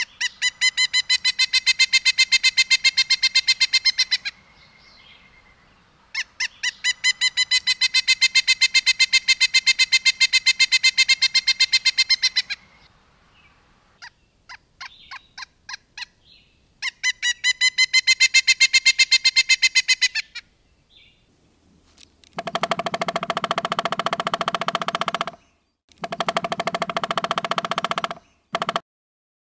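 Songbird calls edited together: three long runs of rapidly repeated high chirps, each lasting several seconds, with short scattered notes between them, then near the end a lower, buzzy rattling call in two bursts.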